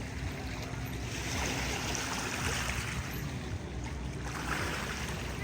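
Lake water lapping and splashing around a kayak, the rushing swelling and fading every second or two.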